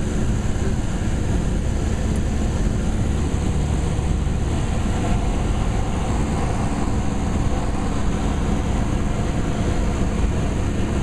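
Cessna 172 Skyhawk's four-cylinder piston engine and propeller droning steadily in flight, heard from inside the cabin.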